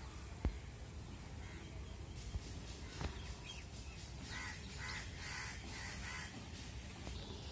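Distant bird calling in a quick run of five or six short calls about halfway through, over a steady low outdoor rumble with a few faint knocks.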